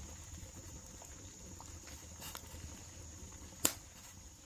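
Wood campfire crackling with scattered small pops and one sharp loud pop about three and a half seconds in, over a steady high-pitched insect drone.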